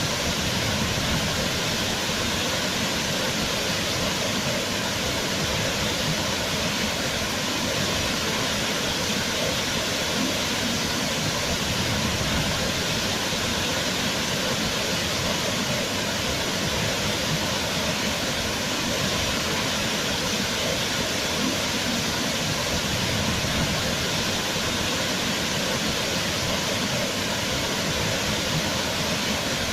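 Waterfall, water pouring and splashing in a steady, even rush with no change in level.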